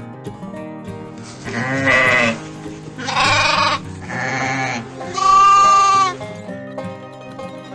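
Four loud bleats from a sheep or goat, each about a second long, over background music; the last bleat is the loudest.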